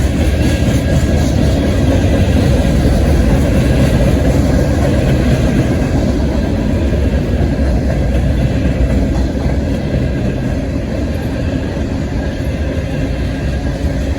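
Freight train rolling past with a loud, steady rumble that eases a little over the last few seconds.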